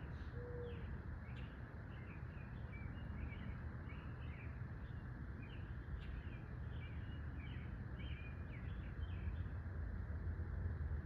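Small birds chirping in quick, overlapping calls, with a single low dove coo right at the start, over a steady low rumble of outdoor background noise that grows a little louder near the end.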